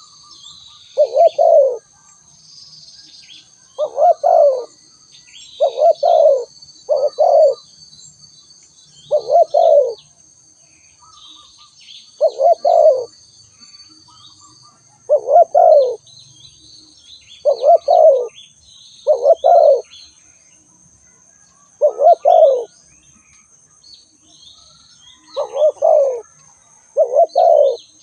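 Spotted dove cooing: about a dozen short, low coo phrases repeated every one to three seconds, some in close pairs. Small birds chirp faintly and high in the background.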